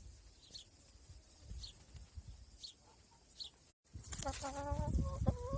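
Faint short high chirps, about one a second, from a small bird or chick. After a cut, a louder farm-animal call with a wavering pitch.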